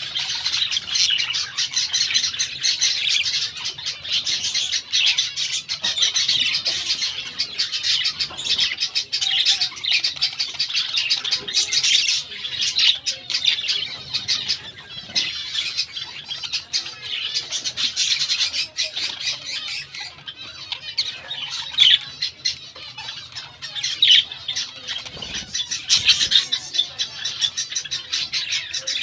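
Budgerigars chattering continuously: a dense flock warble of rapid chirps and squawks with no pause.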